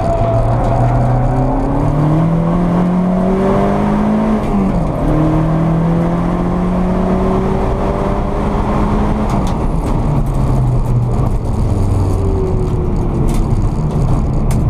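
A sprint car's engine, heard from inside the cabin, pulling hard with the revs climbing; the pitch drops sharply about four and a half seconds in as a gear is changed, then climbs again. Near ten seconds the revs fall away and then build once more toward the end.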